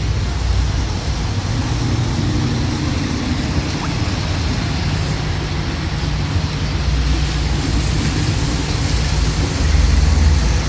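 Steady outdoor background noise, a low rumble under a broad hiss, growing louder near the end.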